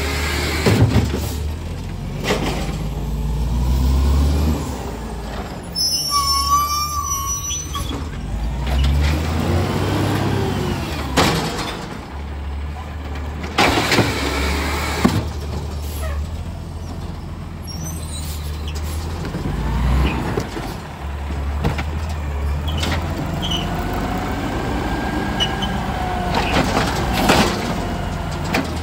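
Garbage truck engine running, rising and falling in pitch, with several short hisses and a brief high squeal about six seconds in.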